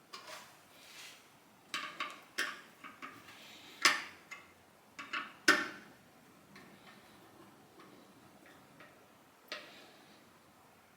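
Small metal tools and parts being handled on a workbench: a run of sharp clicks and clinks over the first six seconds, two of them louder, then one more near the end.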